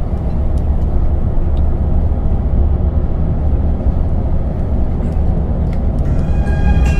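Steady low engine and road rumble heard from inside a moving vehicle. Music fades out just after the start and comes back in about six seconds in.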